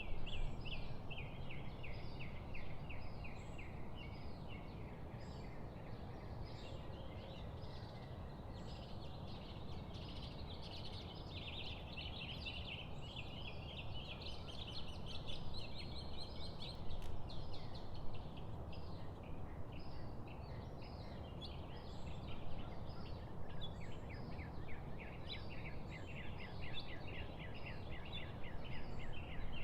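A chorus of birds chirping and twittering in quick, dense runs with hardly a break, over a steady low background rumble.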